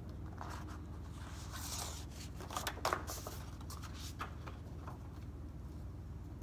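Rustling and a few sharp clicks as something is taken off and handled, loudest about two and a half to three seconds in, over a steady low hum.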